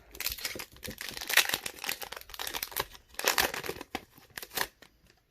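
Foil booster-pack wrapper being crinkled and torn open by hand, a run of dense crackling that stops about three-quarters of the way through.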